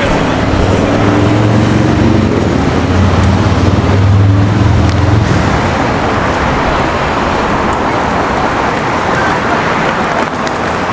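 City street traffic: steady road noise, with a nearby vehicle's engine running low for the first five seconds or so.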